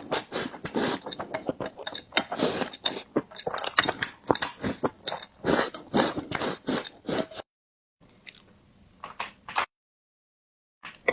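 Close-miked eating: dense, irregular chewing and biting mouth sounds. About seven seconds in they cut to dead silence twice, with fainter chewing in between.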